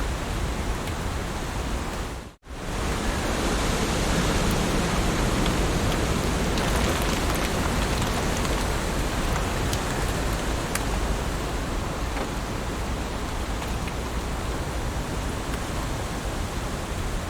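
Steady heavy rain falling, with faint scattered drop ticks. About two seconds in it cuts out for an instant and comes back up within half a second.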